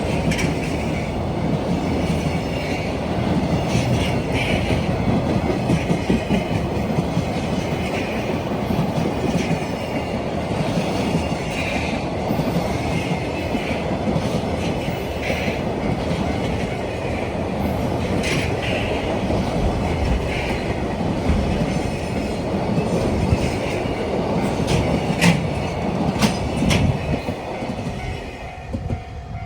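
A train running past on the rails. Its wheels rumble steadily, with scattered sharp clicks and brief higher squeals, and the sound fades near the end.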